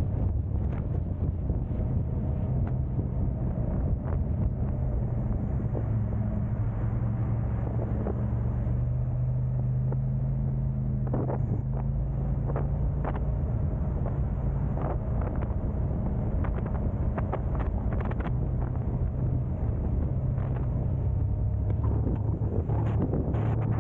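A car driving: a steady low engine and road hum whose pitch shifts slightly partway through, with a few brief knocks here and there.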